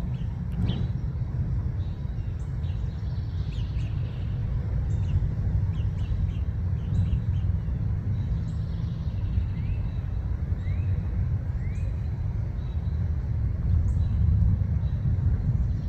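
Small songbirds chirping with short high calls scattered throughout, and a few quick upslurred notes about ten to twelve seconds in, over a steady low rumble.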